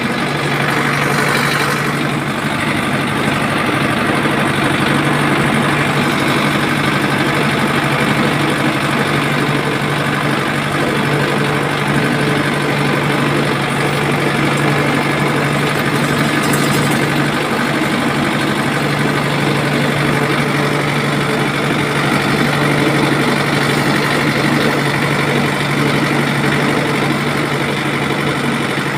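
A motor running steadily at a constant speed, with a steady low hum.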